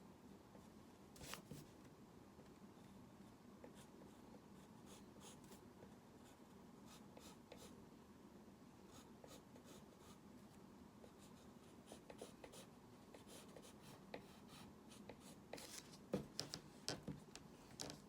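Faint scratching of drawing strokes on a surface: scattered short strokes, a quick cluster about a second in, and a denser, louder run of strokes near the end.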